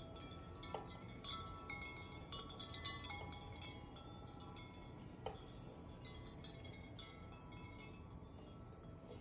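Wind chimes ringing faintly as gusts move them: several tones struck at irregular moments and ringing on, over a low rumble of wind.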